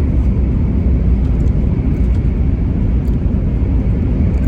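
Steady low rumble of a Japanese high-speed train running at speed, heard from inside the passenger cabin.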